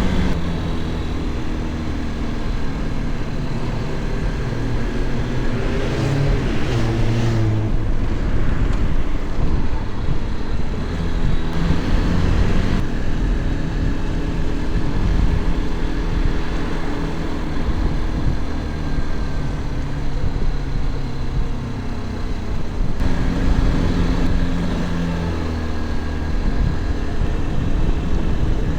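Motorcycle engine running on the road, its pitch rising and falling with throttle and gear changes, over steady wind rush.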